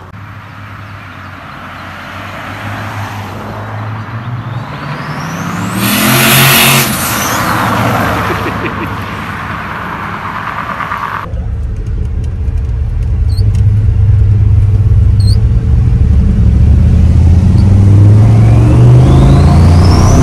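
Turbocharged LS V8 in a 1971 Chevy C30 truck under hard acceleration, with the engine note climbing in pitch and a turbo whine sweeping up high alongside it, twice. The sound changes abruptly partway through, and a heavy low rumble then builds to the loudest point near the end.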